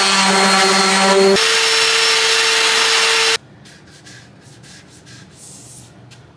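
Electric sander running on wood: a steady, loud hiss over a motor hum. The hum shifts higher about a second and a half in, then the sound cuts off suddenly after about three and a half seconds.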